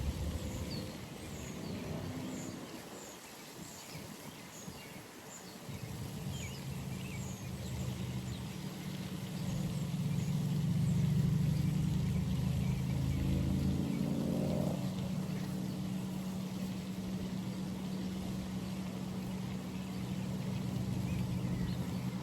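A steady low motor hum, like a vehicle engine running, sets in about five seconds in and swells a little toward the middle. Short high bird chirps come in the first several seconds.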